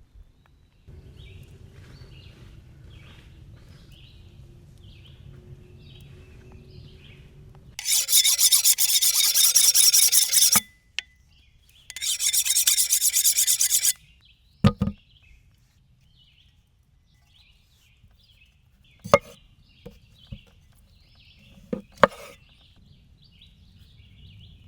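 Hand tool rasping on wood in two bouts of about three and two seconds, followed by a few sharp knocks. Faint birds chirp in the background.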